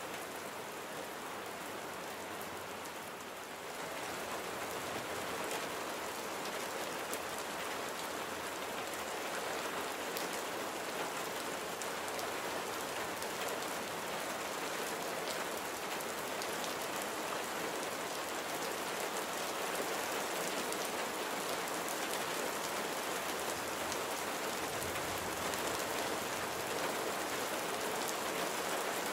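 Steady rain falling, an even hiss of many drops that grows a little louder about four seconds in.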